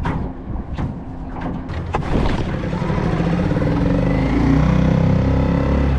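Yamaha 2.5 hp outboard motor on a small jon boat being throttled up: after a few sharp clicks, it gets louder about two seconds in, its pitch rising as it speeds up.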